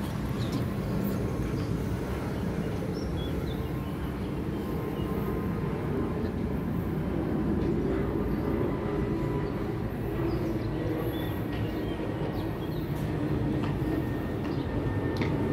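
Steady low rumble and hum of an electric train at a station platform.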